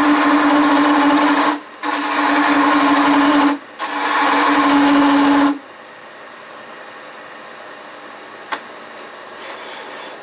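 Roughing gouge cutting a spinning walnut blank on a wood lathe in three passes of about two seconds each, with short breaks between them. The cutting stops about five and a half seconds in, leaving a much quieter steady hum, and there is a single sharp click near the end.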